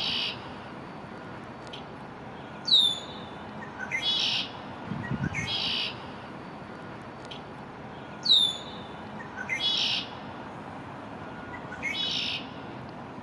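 Male red-winged blackbird, an immature first-spring bird, singing its 'ooka-lee' song over and over. Each phrase opens with a sharp, high, down-slurred note and ends in a buzzy trill.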